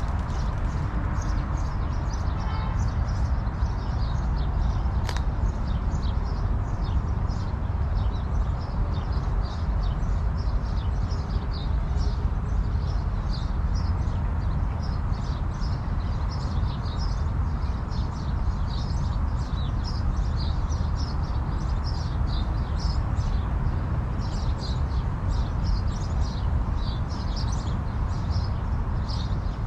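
Steady rush of falling water from a park water feature, with many small birds chirping over it.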